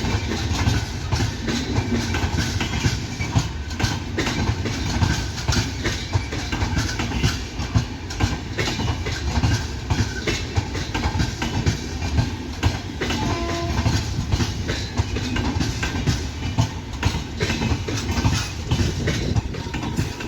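Passenger train coaches rolling through the station, wheels clattering over rail joints in a steady run of clicks and rumble.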